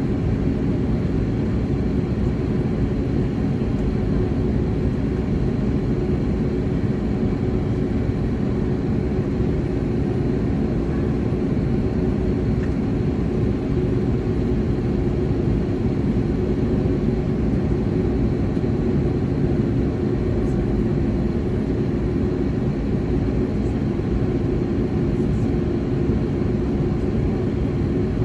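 Steady cabin noise of an Airbus A321neo jet airliner: a low, even rumble of engines and airflow with a steady hum, unchanging throughout.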